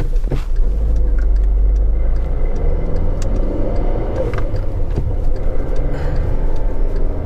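Volkswagen GLI with a K04 turbo upgrade being driven: steady engine and road rumble heard from inside the car, with the engine note changing about two and a half seconds in.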